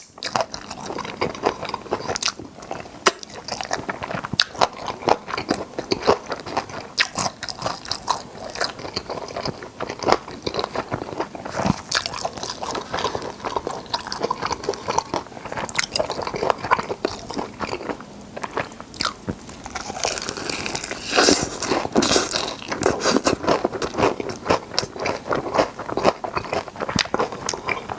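Close-miked eating of crispy fried chicken drumsticks: repeated crunchy bites into the coating and wet chewing, in quick irregular crunches, busiest about two-thirds of the way through.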